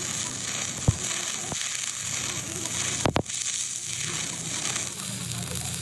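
Electric arc welding: a steady crackling, sizzling hiss from the arc, broken by a few sharp knocks about one second and three seconds in.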